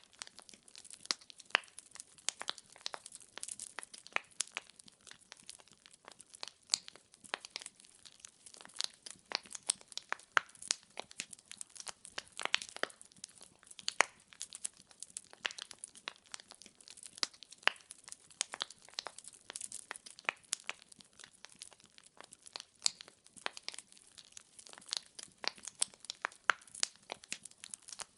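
Wood fire in a fireplace crackling, with many small sharp pops and snaps from the burning logs coming irregularly, several a second, over a faint hiss.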